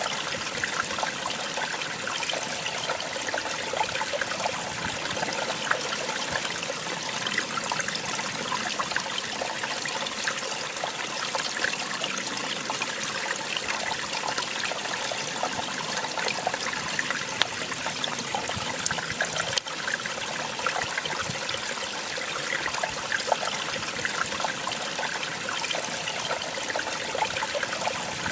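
Small waterfall splashing and trickling steadily, a dense hiss of water full of tiny spatters. A single sharp click sounds about two-thirds of the way in.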